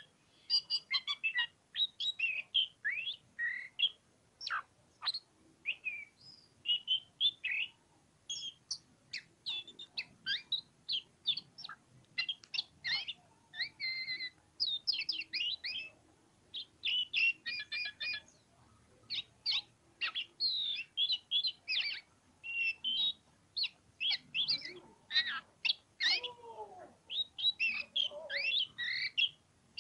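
Oriental magpie-robin (kacer) singing a long, varied song of quick whistled notes, sweeps and chattering trills, phrase after phrase with brief pauses.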